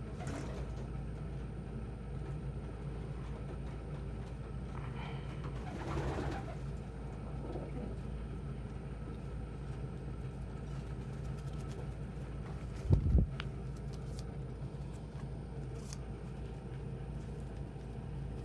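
Domestic pigeons cooing softly over a steady low hum, with one loud low thump about two-thirds of the way through.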